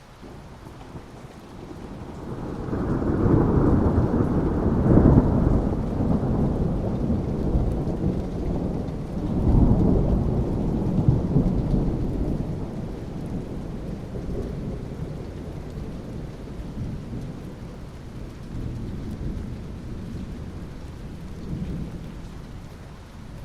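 Rolling thunder over steady rain. A deep rumble builds about two seconds in, swells again near the ten-second mark, then dies away slowly under the rain.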